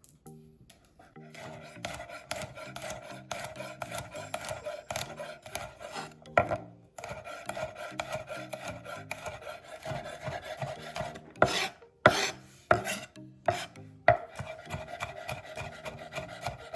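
Garlic being cut up by hand in fast, rasping strokes that run in long stretches, broken by a few short pauses and a handful of louder knocks.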